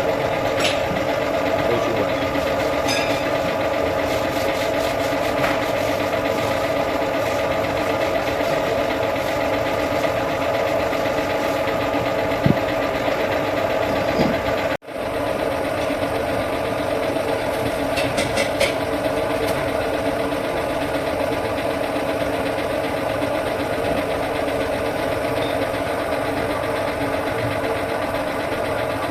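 An engine running steadily with an even hum and a few light metallic clicks. It drops out abruptly for a moment about halfway through.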